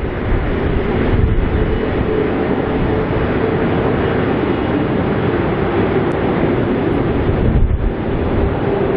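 Jet engines of a landing twin-engine widebody airliner: a loud, steady rumble with a humming tone held through it.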